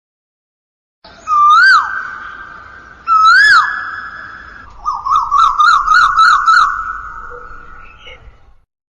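Bird calls: two loud whistles, each rising then dropping, about two seconds apart, followed by a quick warbling trill of about six notes. The calls start and stop abruptly, with dead silence before and after.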